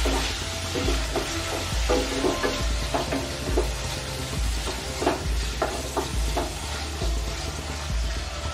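Boneless chicken pieces and sliced garlic sizzling in hot oil in a nonstick kadai, stirred with a wooden spatula that scrapes across the pan in short strokes at irregular intervals.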